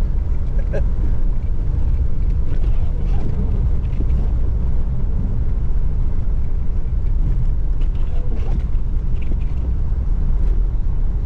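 Steady low rumble of a car driving on a snowy highway, heard from inside the cabin: engine and tyre noise at moderate speed.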